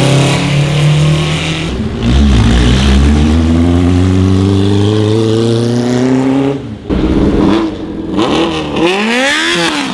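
Sport motorcycle engine under hard acceleration: a loud held note, then a long steady climb in pitch that cuts off suddenly near seven seconds, followed by several quick revs rising and falling near the end.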